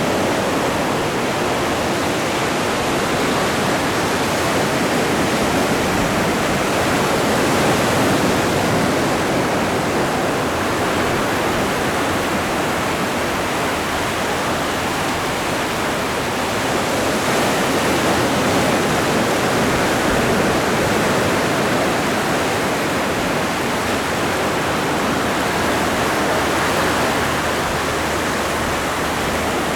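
Ocean waves breaking and washing on the shore in a steady rush of surf, swelling slightly about every ten seconds.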